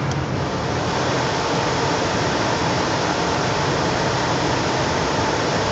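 Steady rushing noise from an idling 1999 Ford Mustang's 3.8 L V6 engine bay, a car that the owner says shakes and misfires at idle when the AC or power steering loads it.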